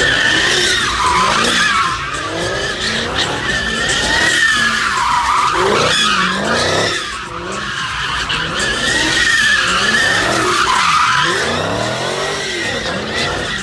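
A car drifting at a street takeover: its tires squeal on and on while the engine revs rise and fall over and over.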